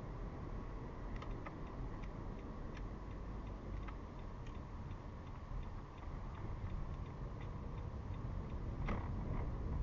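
A car's turn-signal indicator clicking in a steady rhythm, about two to three clicks a second, over the low hum of the engine and road inside the cabin. The clicking stops near the end with one louder click as the car moves off.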